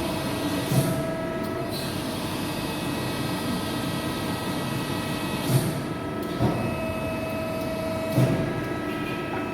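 Steady hum of a hydraulic press brake's electric motor and pump running, with four short knocks spread through it.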